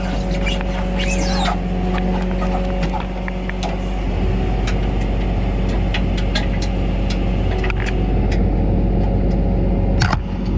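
A vehicle engine running steadily, its low note changing about four seconds in, with scattered clicks and rattles and a sharp knock near the end.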